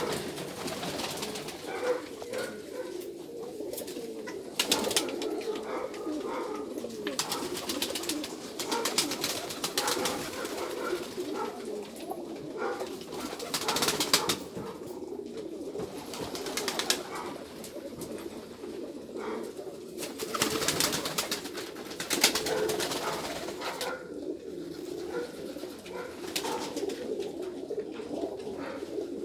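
Pigeons cooing, their low calls overlapping into a continuous murmur, with scattered sharp clicks throughout.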